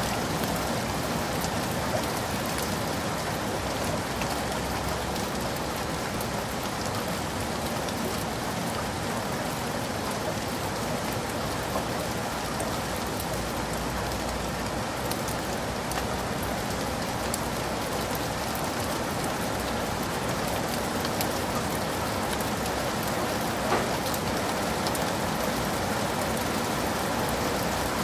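Heavy rain falling steadily, a dense even hiss with many small drop ticks on leaves and surfaces.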